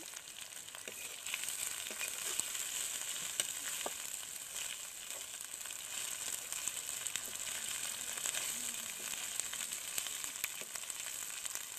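Locusts sizzling and crackling as they fry in oil in a metal kadai, with a metal spoon stirring them through the pan.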